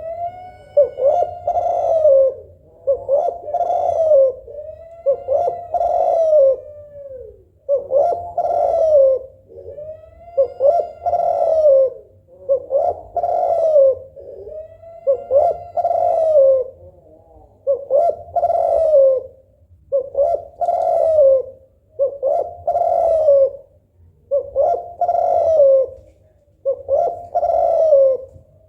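Female spotted dove cooing over and over, one arching coo phrase about every two seconds: the call of a hen in breeding condition calling to a male.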